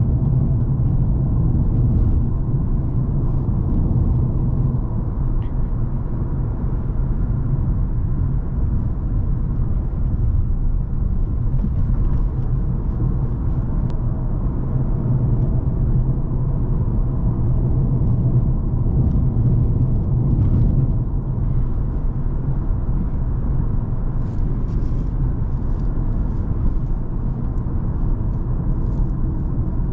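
Cadillac CTS 3.6 twin-turbo V6 car driving at a steady pace: a constant low engine and road rumble with no revving.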